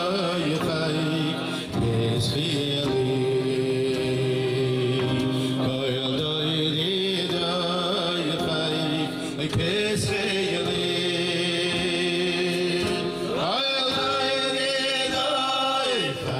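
Men singing a Jewish religious melody with live musical accompaniment, the voice sliding through ornamented runs near the end.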